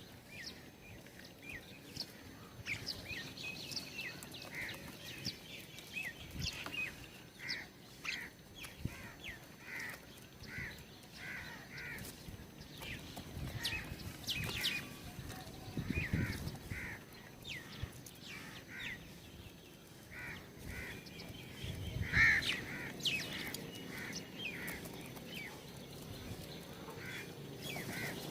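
Several birds calling in a steady run of short, repeated calls about twice a second, mixed with sharper high chirps, and a couple of low thuds.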